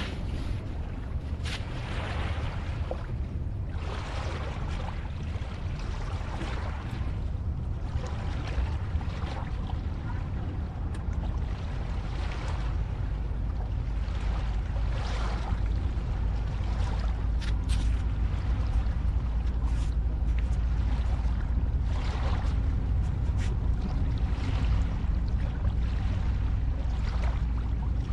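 Ocean waves washing and lapping: a steady low rumble with washes of hiss that rise and fall every few seconds.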